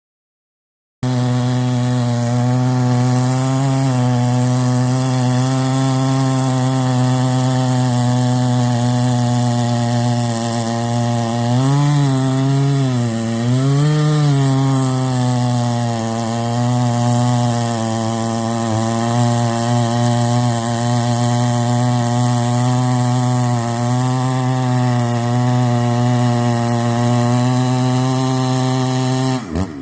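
Husqvarna 394XP two-stroke chainsaw engine running at a steady speed, its pitch dipping and wavering briefly in the middle before settling again.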